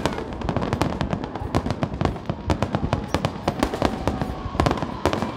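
Fireworks display: a dense, rapid barrage of cracks and bangs, many per second without a break.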